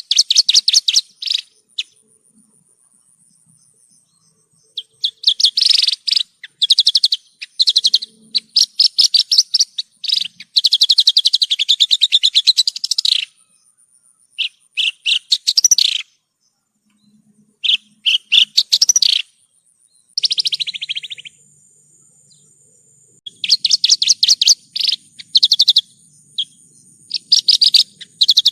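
Javan bush lark (branjangan) singing: fast chattering phrases of rapidly repeated notes, each one to three seconds long, separated by short pauses.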